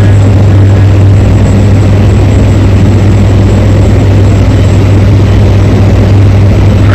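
Heavy diesel engine running steadily with a loud, deep, even drone and no change in pace.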